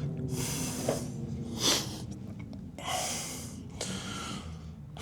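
A man breathing audibly close to the microphone, a few separate breaths in and out.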